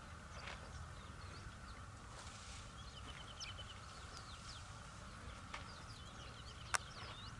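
Several wild birds chirping and trilling, with short repeated calls over a steady background drone, and a single sharp click near the end.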